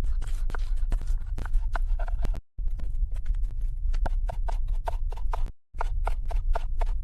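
Rapid hollow knocks and taps of wood being worked, several a second, over a steady low rumble, broken by two abrupt cuts to silence.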